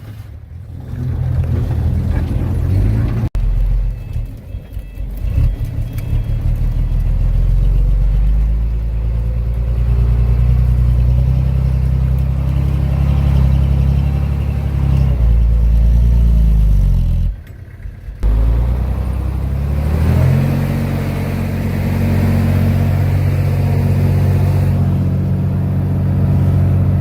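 Heavy diesel engine of earthmoving machinery running under load, its pitch rising and falling as it works. It drops out briefly about two thirds of the way in, then runs steady.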